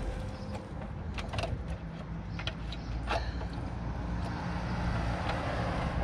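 Sheet-steel repair work: scattered sharp metallic clicks and knocks from handling and cutting a small steel patch, over a steady low rumble.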